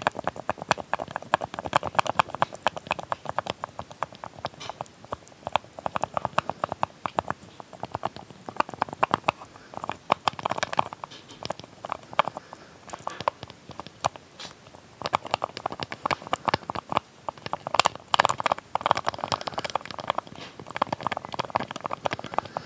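A small lid tapped and clicked close to the microphone: rapid, irregular clicks and taps with a few short lulls.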